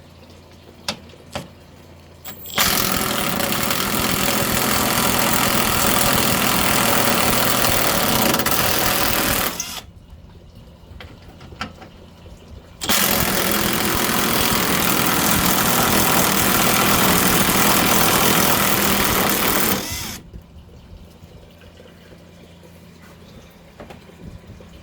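Cordless impact ratchet running in two long runs of about seven seconds each, with a pause between them, backing out a stubborn fastener. A few light clicks come just before the first run.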